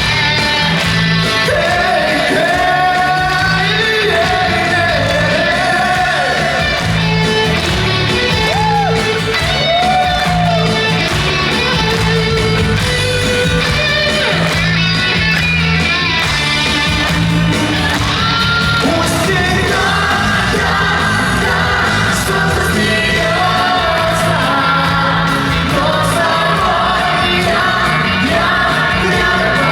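A male solo singer performing a pop-rock song live with a band, the singing carried over a steady beat and bass line in a large hall.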